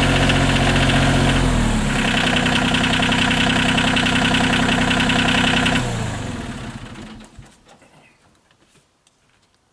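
An engine idling, its speed stepping down about a second and a half in, then shut off about six seconds in and running down to a stop.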